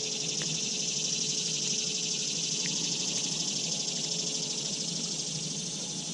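High-pitched insect chorus buzzing steadily, swelling and then easing off near the end.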